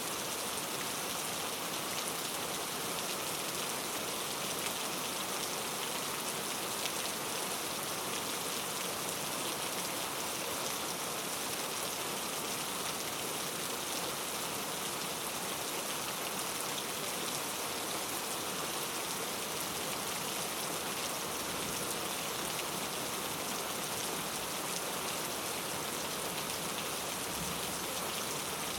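Steady rainfall on forest foliage, an even patter of many drops with no change in strength.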